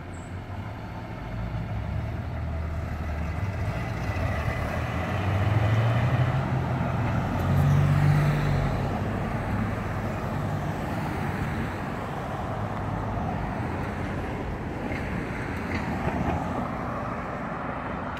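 A vintage car's engine pulls away and accelerates, its low drone rising in pitch and loudest in the middle, then fading into the hiss of passing cars and tyres.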